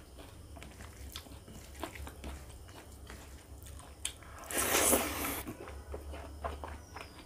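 Chewing and wet mouth sounds of a person eating rice and pork curry by hand, with small clicks and smacks throughout. About halfway through, a loud burst of noise lasting about a second as a handful of curry-soaked rice goes into the mouth.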